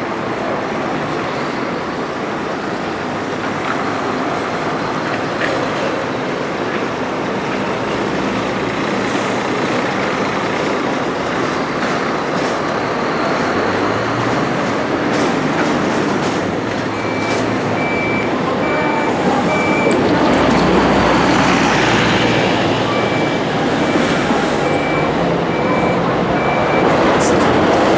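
Scania-chassis Modasa Zeus II coach running, its engine noise steady. In the second half a reversing beeper sounds a run of evenly spaced high beeps for about ten seconds.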